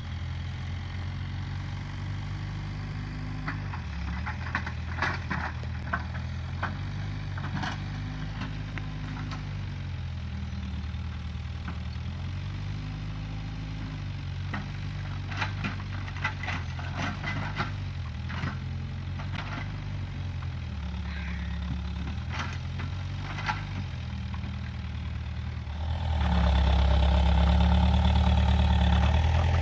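Case 580G backhoe loader's engine running at low revs, its pitch shifting slightly under changing load, with scattered sharp cracks and knocks. About 26 seconds in, the engine revs up and gets markedly louder.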